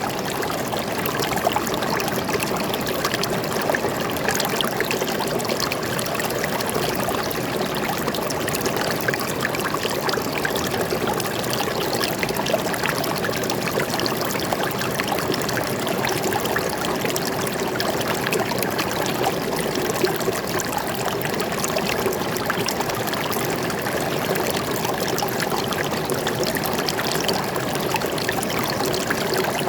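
A forest stream flowing steadily over stones, a constant rushing with fine splashing and trickling throughout.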